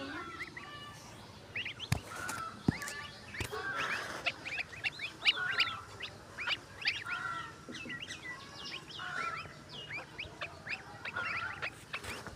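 Many birds calling at once: a dense, busy run of quick high chirps and peeps with some lower calls mixed in.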